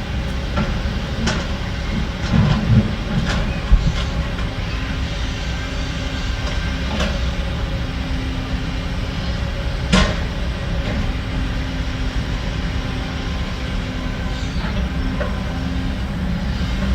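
Heavy earthmoving machinery's engine running steadily under a low rumble, with scattered sharp metallic clanks and knocks, the loudest about ten seconds in.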